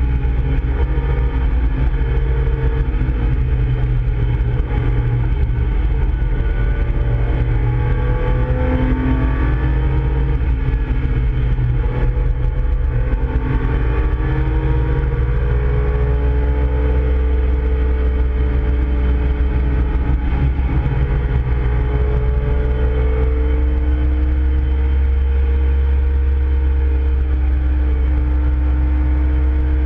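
Interior sound of a Nissan Skyline GT-R (KPGC10)'s S20 twin-cam straight-six being driven hard on a race circuit, engine pitch rising and falling as it accelerates and eases for corners, over a strong low rumble in the cabin.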